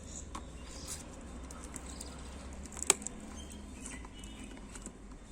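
Quiet handling of a GoPro helmet mount, with faint small ticks and one sharp click about three seconds in.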